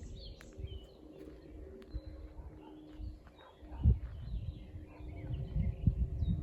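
Wild birds calling and chirping in short scattered notes, over a low rumble with a single thump about four seconds in.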